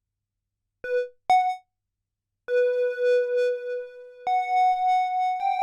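Sequential Trigon-6 analog polyphonic synthesizer playing: two short notes about a second in, then a held note with a slow wobble in level. A higher note joins near four seconds and another near the end, sustaining together as a chord.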